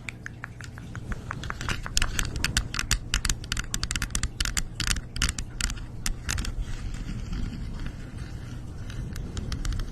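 A rapid, irregular run of sharp clicks and scratchy taps, densest from about two to six seconds in, over a steady low rumble.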